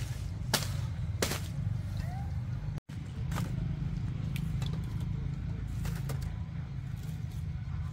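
A few sharp knocks over a steady low rumble.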